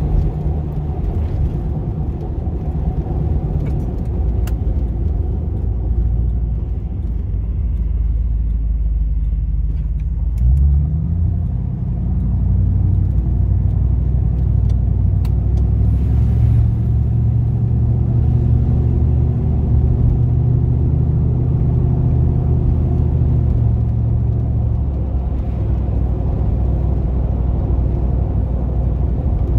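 V8 engine of a GMC Vandura / Chevy G20 van running under way. About ten seconds in it revs up with a rising pitch and pulls at higher revs, then eases off near the end.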